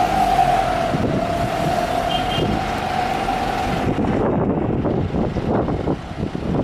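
Boeing 777-300ER's GE90 jet engines at takeoff thrust: a strong steady whine over a broad rumble, the whine sinking slightly in pitch and fading about four seconds in, leaving a ragged, crackling low rumble.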